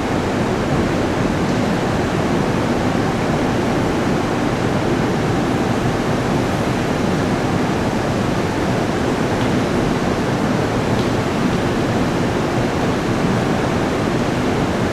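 Train noise at a station: an even, steady rushing hiss with no rhythm or wheel clicks.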